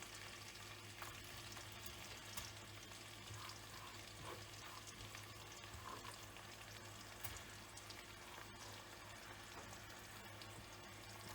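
Sliced onions frying in hot oil in a pressure cooker: a faint, steady sizzle, with a low steady hum underneath.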